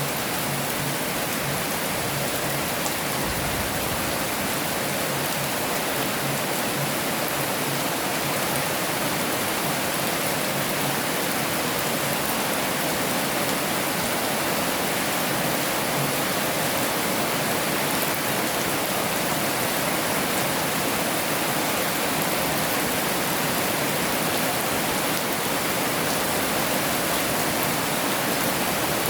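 Heavy rain falling steadily, an even hiss with no distinct drops or thunder.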